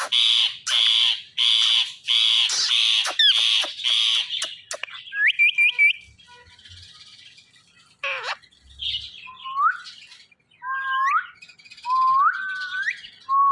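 Ringneck parrot squawking in a rapid series of loud, harsh calls for about four seconds, followed by short, clear rising whistles.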